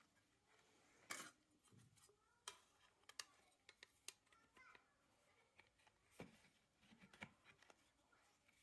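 Faint, scattered clicks and light scrapes of small hard objects being handled, the sharpest click a little after a second in.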